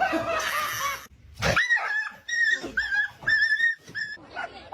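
A dog whining: about five short, high-pitched whines in quick succession, following a noisy first second.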